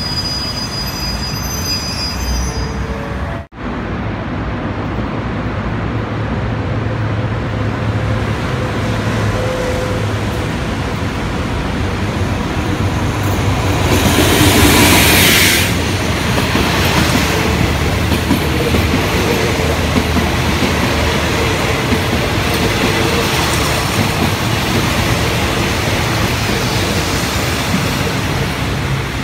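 Diesel-hauled passenger train passing close by. The locomotive's engine and the rolling rumble grow loudest as it goes past about halfway through, then the coaches roll by with steady wheel-on-rail noise and some wheel squeal.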